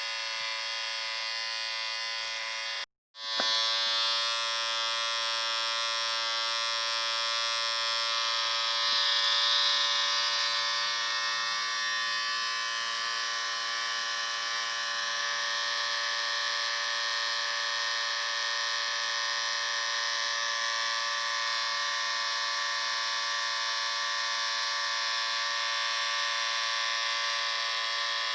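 Electric shaver running with a steady, even buzz; it cuts out for a moment about three seconds in, then starts again.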